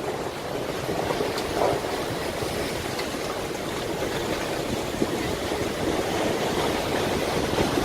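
Rushing water of a storm-driven sea: a steady, unbroken roar of surf and churning waves.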